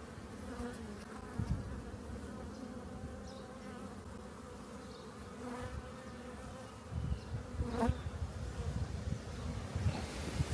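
A colony of honeybees in an opened hive buzzing steadily. A low, gusty rumble of wind on the microphone picks up in the last few seconds.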